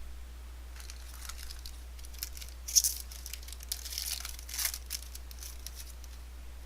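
Wrapper of a trading-card pack being torn open and crinkled, a run of crackly rustles and tears lasting a few seconds.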